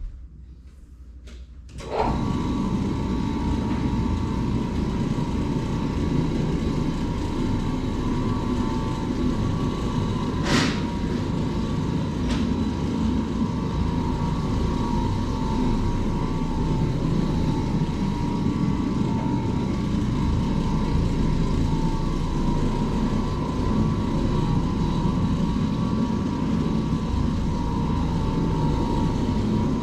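Low-moisture orbital carpet-cleaning machine switched on about two seconds in and running steadily, a low rumble with a steady motor whine. One sharp click about ten seconds in.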